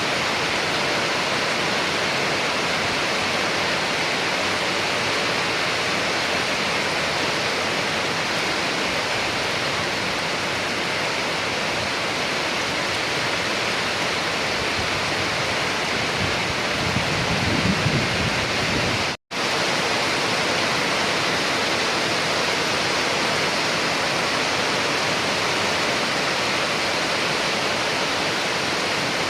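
Steady heavy rain, an even hiss. About two-thirds of the way in, a brief low rumble swells up, and just after it the sound cuts out completely for an instant before the rain resumes.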